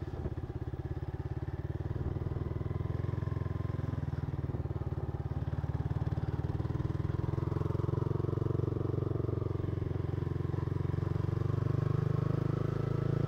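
Yamaha MT-15's single-cylinder engine running steadily under way in third gear, heard from the rider's seat. It grows a little louder over the second half.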